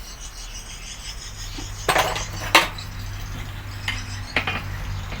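Workshop clatter of metal parts and hand tools being handled: a few sharp knocks and clinks, the loudest about two and a half seconds in, over a low steady hum that starts about a second in.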